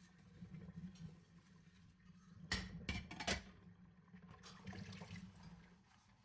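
Dishes being washed in a kitchen sink: water running and splashing under a steady low hum, with three sharp knocks of crockery near the middle and a few lighter clinks after.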